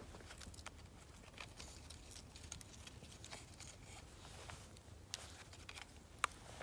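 Mixed-hardwood campfire crackling quietly, with scattered small crackles and two sharper pops near the end.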